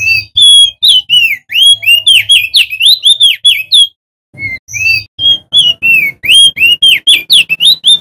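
Male opior jambul (leaf-warbler-like crested white-eye) singing a loud, rapid run of clear whistled notes, each a quick up-and-down slur, about four or five notes a second. The song breaks off briefly near the middle, then picks up again.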